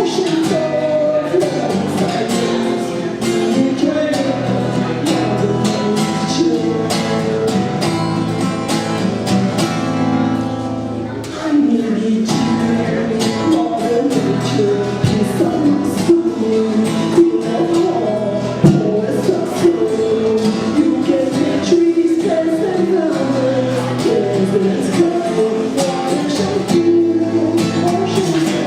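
A song performed live: singing with a plucked-string accompaniment, played steadily, with a short quieter moment about eleven seconds in.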